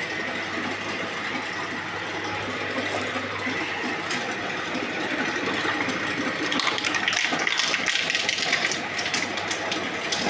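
Shredding machine running steadily with a hum and a steady whine, its motor newly replaced and its works freshly oiled. From about six and a half seconds in, dense crackling and rattling is added and the sound gets a little louder.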